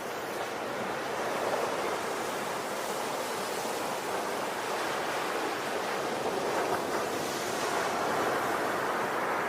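Ocean waves washing on the shore in a continuous, gently swelling surf.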